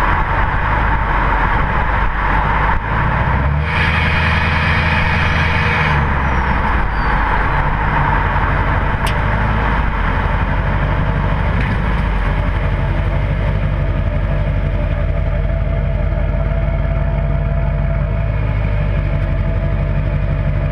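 2008 LMM Duramax 6.6-litre V8 turbodiesel running through a straight-piped exhaust with the catalytic converter, DPF and muffler deleted. The engine runs steadily, with a brief rise in revs and a higher whine from about four to six seconds in.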